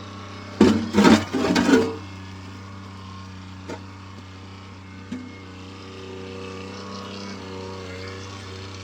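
Kioti CK2610 compact tractor's diesel engine running steadily. A few loud, brief noises break over it in the first two seconds.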